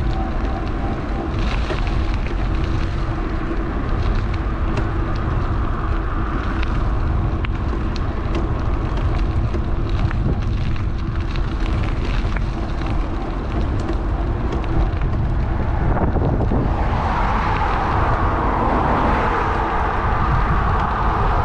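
Wind buffeting a GoPro's microphone on a moving electric bike, with road traffic; a louder rush of traffic comes in about 17 seconds in.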